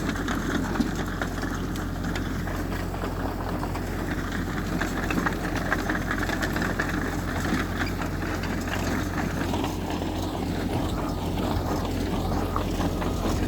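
Heavy earthmoving machinery with a diesel engine running steadily, with irregular light clatter throughout.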